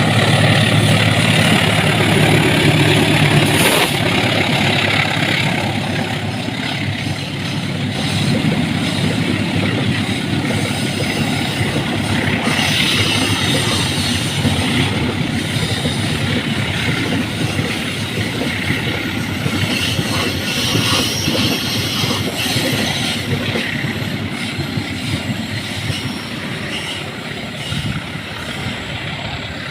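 Train passing close by: a loud low rumble for the first few seconds, then the carriages' wheels clattering over the rail joints in a long steady run that slowly fades.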